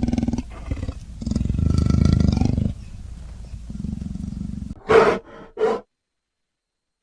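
A large wild animal roaring and growling deeply, dying down to a low rumble, then two short higher calls about five seconds in, after which the sound cuts off to silence.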